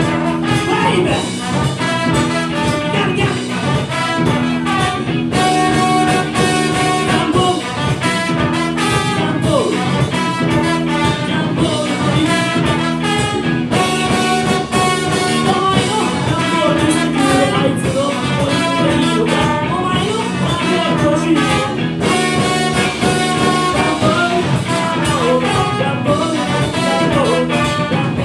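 A live band playing a funk number, with brass horns over the rhythm section.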